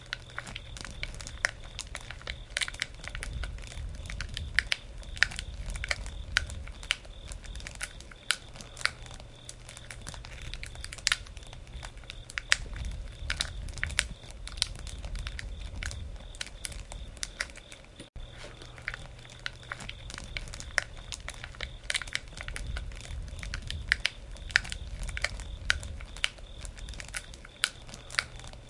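Wood campfire crackling, with many irregular sharp pops and snaps over a low rushing of the flames that swells and fades a few times.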